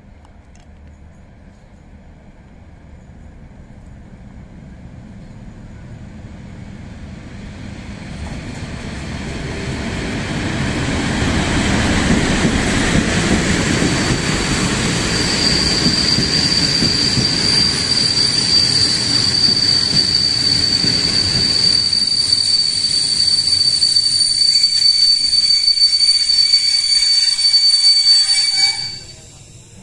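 Special train of green passenger coaches hauled by electric locomotive EP05-23 rolling into the station. The wheel noise grows steadily louder as it approaches, then the coaches pass. From about halfway through, a steady high brake squeal sounds as the train slows for its stop, and a second, lower squeal joins near the end before the sound cuts off suddenly.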